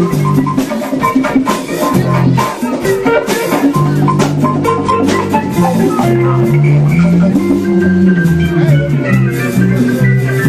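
Live band playing an instrumental improvised jam: a walking bass line under pitched instruments, with shaker-like percussion and drums.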